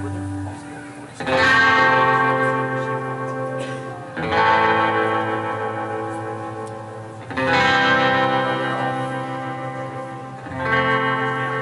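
Guitar with effects and reverb striking a full chord about every three seconds, four times, and letting each one ring out and fade, as an instrumental interlude in live worship music.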